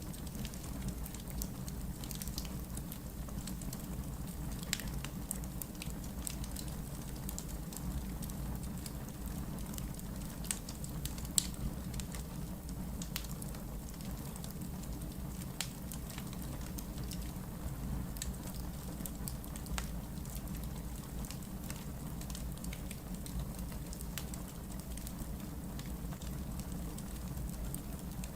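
Wood fire burning in a fireplace: a steady low rumble with many small irregular crackles and a few sharper pops from the burning logs.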